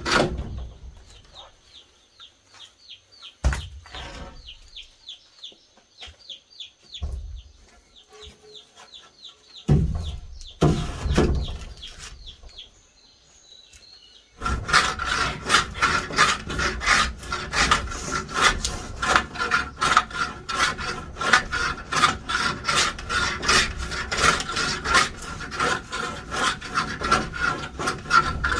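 A hand tool rasping and scraping on wood in quick, even strokes, several a second, starting suddenly about halfway through. Before it, a bird chirps in a fast run of short notes and a few wooden knocks sound.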